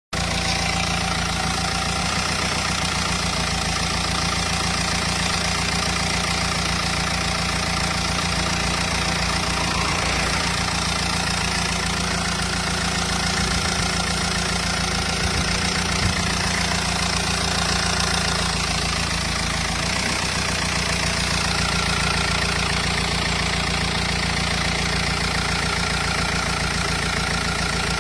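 Renault Espace 2.0 dCi four-cylinder turbodiesel engine idling steadily, with a single brief tick about halfway through.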